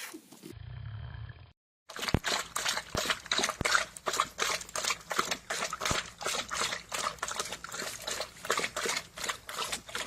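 An animal lapping water in a steady rhythm of about four wet laps a second.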